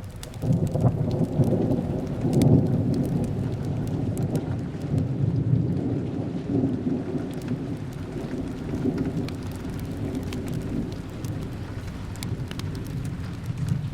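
A long rumble of thunder over steady rain. It swells in about half a second in, is loudest a couple of seconds in, then slowly rolls away, with scattered faint crackles throughout.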